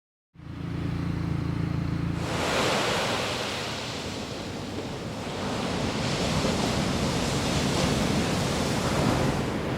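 Ocean surf washing steadily onto a beach, with wind rumbling on the microphone. The low rumble comes in first, and the hiss of the surf joins at about two seconds.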